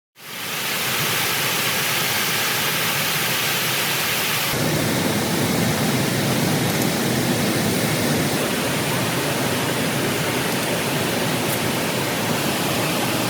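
Heavy rain falling in a steady, dense hiss. About four and a half seconds in, it changes abruptly to a deeper, fuller rush.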